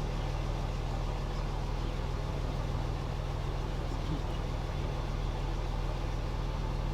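Cummins inline-six turbo diesel idling steadily, a low even rumble through a straight-piped 3-inch exhaust with an aftermarket turbo.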